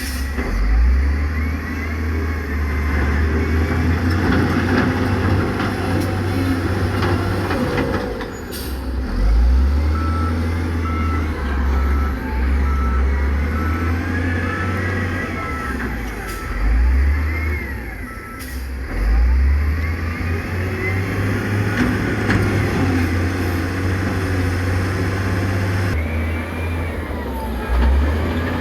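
Heavy diesel construction machinery working, the engines rising and falling under load. A reversing alarm beeps about twice a second at the very start and again through the middle, with a few short sharp sounds between.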